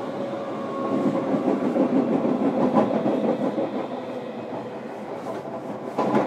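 Interior running sound of a JR Kyushu 305 series electric train, recorded in a motor car: wheels rumbling over the rails with a steady hum, louder in the first half and easing later, and one sharp clack from the track near the end.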